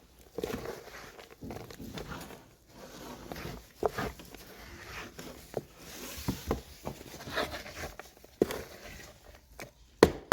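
Scattered light knocks, clatters and rustling, irregular and unrhythmic, with a few sharper knocks near the end.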